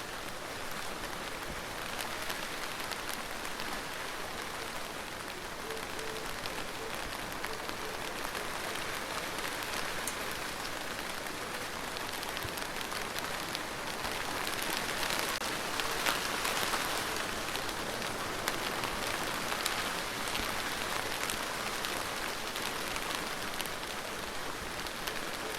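Steady rain falling, a continuous hiss dotted with many separate drop ticks. It grows a little heavier about halfway through, then eases slightly.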